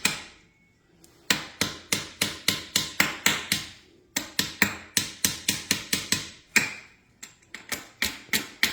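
Repeated sharp tapping of a hammer or hand tool on metal, in three runs of about four to five strikes a second with short pauses, knocking at a part that is stuck tight during an oil filter change.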